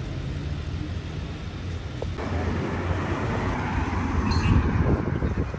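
Street traffic: a low steady vehicle rumble, with the tyre and road noise of a passing car swelling from about halfway through.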